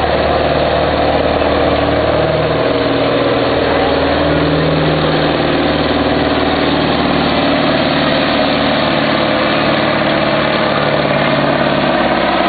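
Heavy diesel semi-truck engine running steadily, its pitch stepping up a little about four seconds in and then holding.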